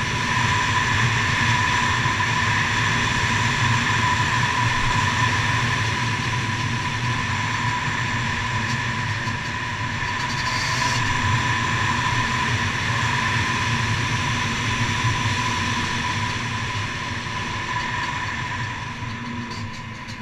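HM Derapage 80cc motorcycle engine running steadily at moderate revs, held back because it is still being run in, with wind noise over the helmet camera. The note barely changes, dipping slightly about halfway through.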